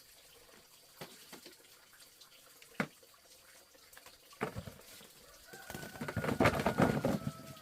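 A few sharp knocks, then a couple of seconds of loud splashing water near the end, with a bird calling a long, slightly falling note over it.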